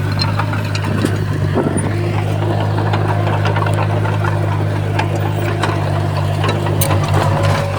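Komatsu D51PX bulldozer's diesel engine running steadily, with scattered sharp clanks and knocks over it.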